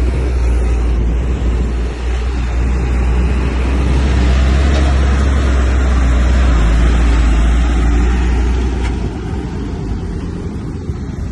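Heavy diesel earthmoving machinery running with a loud low rumble that swells about four seconds in and eases off near the end.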